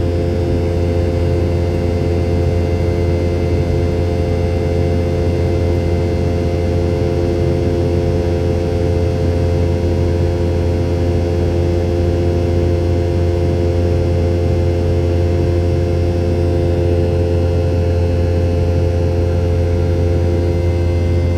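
Steady drone inside the cabin of a Boeing 717-200 in flight, from its rear-mounted Rolls-Royce BR715 turbofans: a strong low hum with several steady higher engine tones over it.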